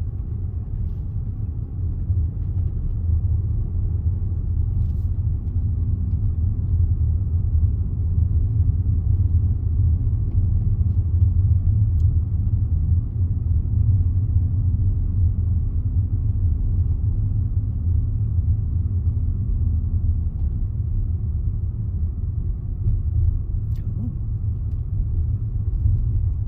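Car interior drone while driving slowly on a moorland road: a steady low engine and road rumble, with a faint engine tone in the middle of the stretch.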